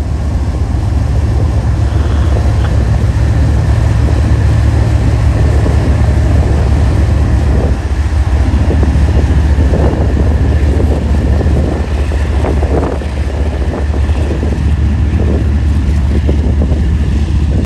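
Norfolk Southern freight train passing close by: a loud, steady low rumble.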